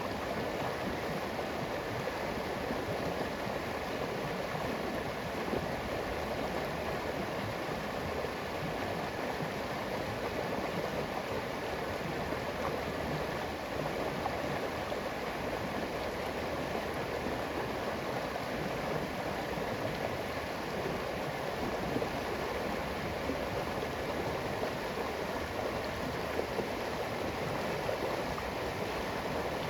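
Flowing river water rushing and gurgling steadily.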